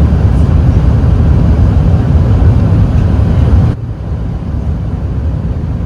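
Airbus A380 cabin noise during takeoff: a loud, deep, steady rumble of jet engines and rushing air. A little under four seconds in it drops suddenly to a quieter, duller drone.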